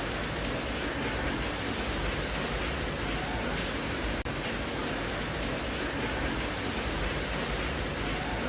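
Steady rain, an even wash of noise, with a momentary dropout about halfway through.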